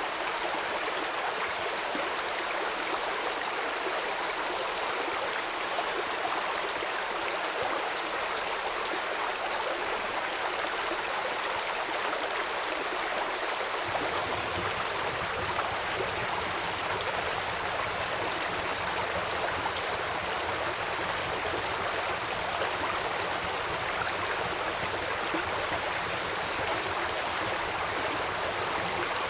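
Steady rushing of a flowing stream with rain. About halfway through a deeper low rumble joins it, and faint high bird chirps repeat about once a second through the last third.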